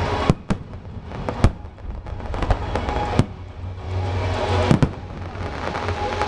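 Aerial fireworks bursting: sharp bangs at irregular intervals, some half a second apart, over a steady crackle of smaller reports.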